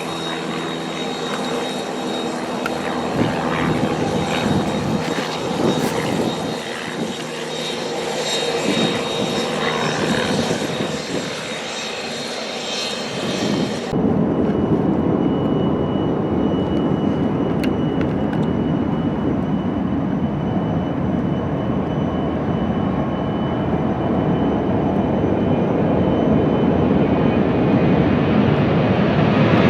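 Jet airliner engines at an airport. For the first half there is a steady engine whine with several held tones. About halfway through the sound changes abruptly to a deeper rumble that keeps growing louder toward the end.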